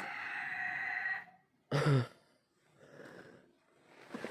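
Rooster crowing, one long steady call that ends about a second in. Shortly after comes a brief, louder call that falls in pitch.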